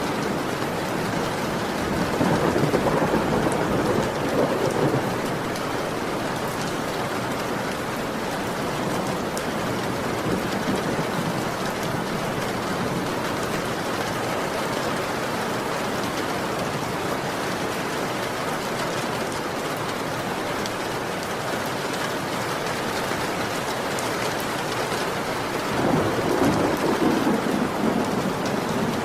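Heavy rain falling steadily, with two low rolls of thunder, one a couple of seconds in and one near the end.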